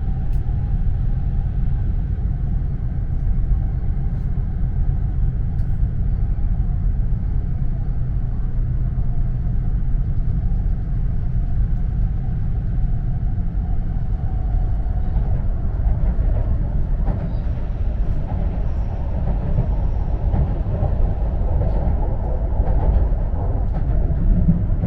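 Steady low rumble of an E4 series Shinkansen running, heard from inside the lower-deck passenger cabin, with faint steady tones riding over it that grow a little stronger about halfway through.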